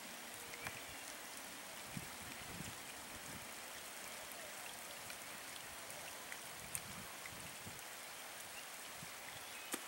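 Steady light rain falling, with scattered drops ticking now and then.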